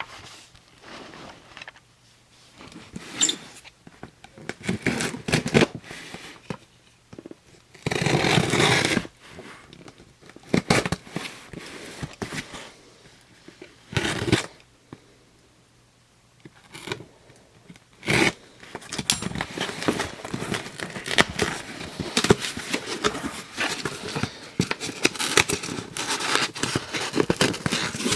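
Hands handling a plastic novelty candy toy and its packaging: irregular scraping, crinkling and clicks, with a few louder rustling bursts and a dense run of crackling clicks in the last third.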